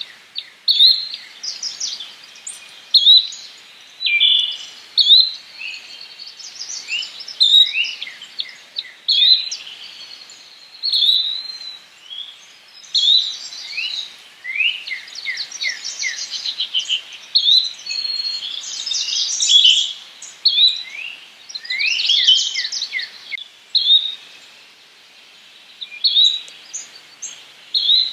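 Birds singing and calling over one another: a short chirp repeats about once a second among trills and quick falling whistled notes.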